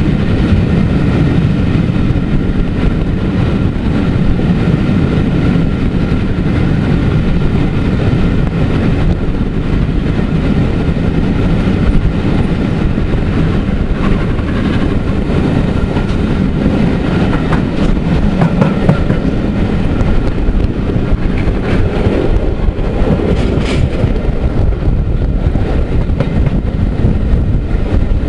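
A steam-hauled passenger train running, heard from one of its carriages: a steady, loud rumble of the coach wheels on the rails.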